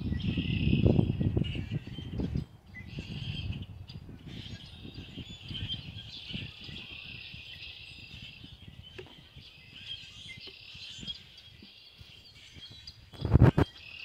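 Songbirds chirping steadily in the background, with close rustling and handling noise in the first couple of seconds and a short loud bump of the camera being moved near the end.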